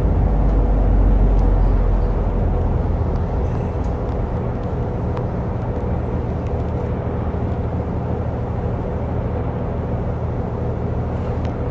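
Route bus heard from inside the cabin while running: a steady low engine drone with road noise. It is a little louder in the first couple of seconds, then holds level.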